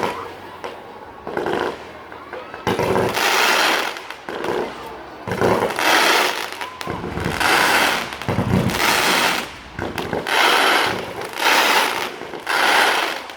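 Fireworks display: a run of about seven loud bursts, each lasting about a second, coming every second or so.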